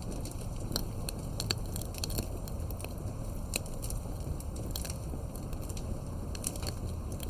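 Wood fire burning, with a steady low rumble under frequent irregular sharp crackles and pops.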